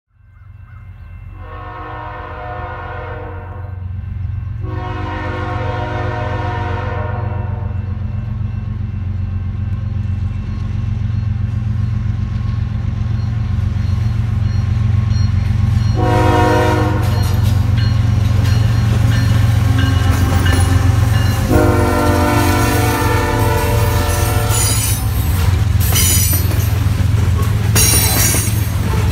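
Canadian Pacific freight train's diesel locomotives sounding a chime horn in two long blasts, a short one and a final long one, the standard grade-crossing signal, as the engine rumble grows louder on approach. Near the end the freight cars roll past with loud wheel clatter and rattling.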